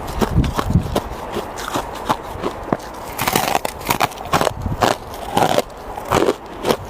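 A person biting and chewing ice: a rapid, irregular run of sharp crunches and cracks, several a second.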